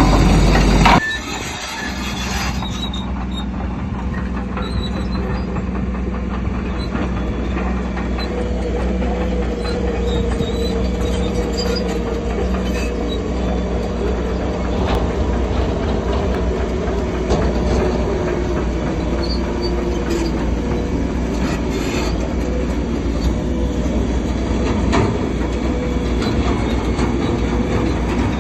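Tracked bulldozer working: the diesel engine runs steadily while the steel tracks squeal and clank. A louder burst of machine noise cuts off abruptly about a second in.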